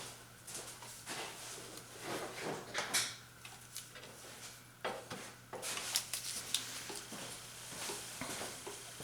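Metal hand tools clinking and knocking as they are rummaged through, in scattered short clicks, with a low steady hum underneath.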